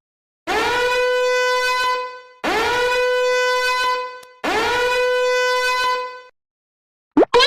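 A horn sound effect blasted three times, each blast about a second and a half long. Each blast swoops up in pitch at its start, then holds one steady, loud note.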